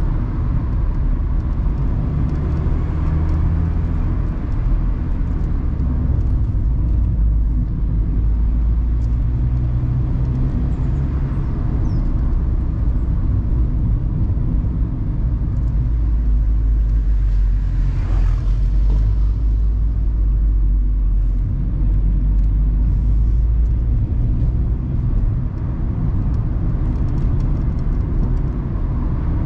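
Mazda ND Roadster's four-cylinder engine running under way, heard from the open cockpit with the top down, its pitch rising and falling with the throttle over steady road and wind noise. A brief rush of noise about eighteen seconds in.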